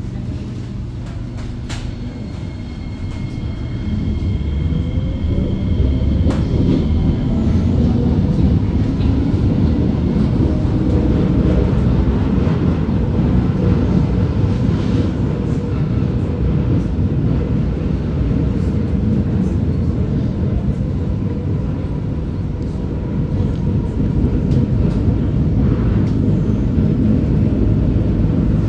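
SMRT C751B metro train pulling away and accelerating, heard from inside the car. The traction motor whine rises in pitch over the first several seconds as the running noise grows louder, then settles into steady wheel-on-rail rolling noise. The knocking of flat-spotted wheels is very loud.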